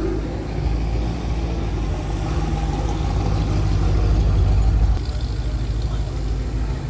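A car's engine and exhaust rumbling low as it drives past. The rumble grows louder until about five seconds in, then drops off suddenly.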